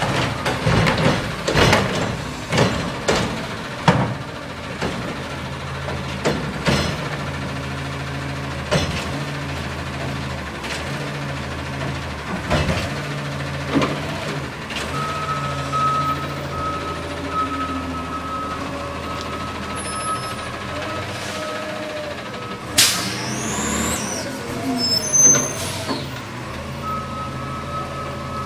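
Garbage truck running, with a run of bangs and clanks in the first several seconds. Later its reversing beeper sounds in a steady series of beeps, stops briefly, and starts again near the end. A sharp air-brake hiss comes about two-thirds through.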